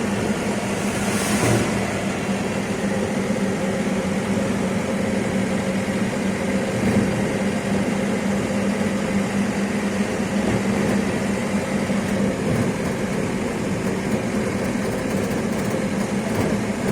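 Heavy rain falling steadily, with a steady low mechanical hum running through it.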